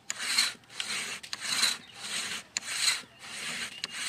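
Rhythmic rasping, scraping strokes, a bit under two a second, alternating stronger and weaker like back-and-forth strokes.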